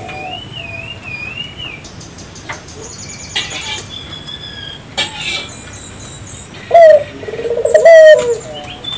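Puter (Barbary) dove cooing loudly twice near the end, a short coo and then a longer rolling one. Thin chirps and trills of small birds run underneath, with a steady high-pitched tone.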